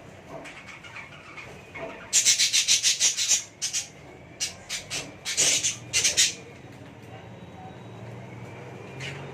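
Budgerigar's beak scraping and pecking at calcium food. A quick run of sharp scratchy strokes, about seven a second, comes about two seconds in, then scattered single strokes.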